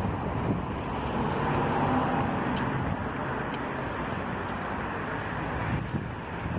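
Strong wind blowing across the microphone: a steady, dense rush of noise.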